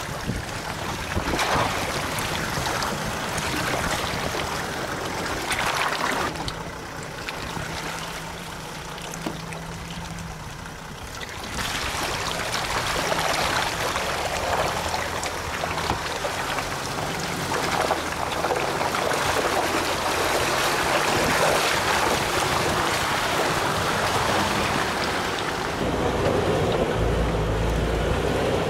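Off-road Jeep engine running at crawling speed on a trail, its low note shifting up and down, under a steady rushing noise.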